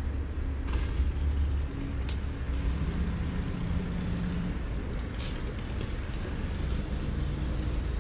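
Downtown street traffic: a vehicle engine passing over a steady low rumble, with a few short hisses or clicks.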